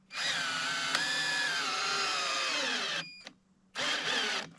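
Power drill driving a fastener into timber framing in two runs: a long run of about three seconds whose pitch sinks toward the end as the motor slows under load, then a short burst about four seconds in.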